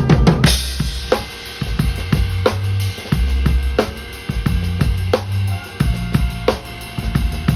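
Live band playing a slow groove on drum kit and bass guitar: a dense run of drum strokes in the first half second, then a snare backbeat about every 1.3 seconds with light cymbal ticks over a low bass line.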